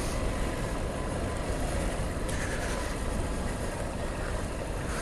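Honda CBF125 motorcycle's single-cylinder engine running steadily at a slow crawl through traffic, with an even rumble of engine and road noise.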